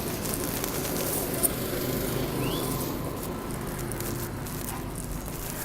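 City street ambience: a steady wash of traffic noise with a low engine hum, one sharp click about a second and a half in and a short rising chirp near the middle.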